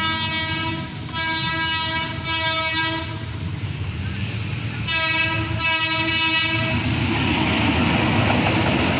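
Philippine National Railways diesel locomotive sounding its horn for the level crossing: several long blasts, a pause of about two seconds, then two more. From about seven seconds in, the locomotive is passing close, its engine rumbling with wheel noise on the rails.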